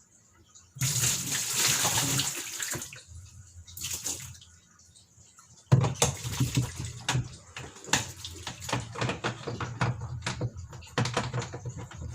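Water running in a loud gush for about two seconds, with a shorter splash a little later. Then a rapid, uneven run of clicks and knocks starts about halfway through and continues.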